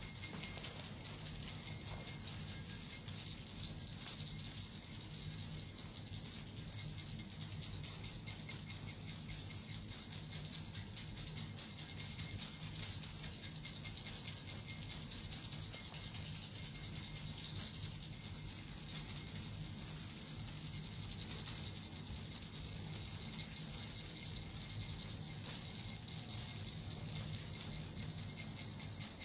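Small jingle bells (suzu) shaken continuously: a dense, rapid, even jingling with a steady high ringing bell tone.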